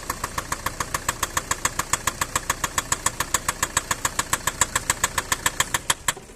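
Mercedes-Benz Sprinter van engine idling with a loud, regular sharp knock, about seven strikes a second, the knocking fault the owner complains of along with smoking. The engine is switched off about six seconds in and the sound cuts off.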